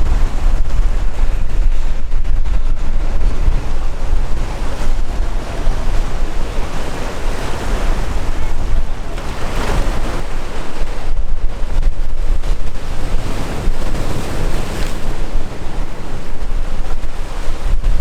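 Sea waves washing and breaking, with a louder surge about halfway through. Strong wind buffets the microphone with a heavy low rumble.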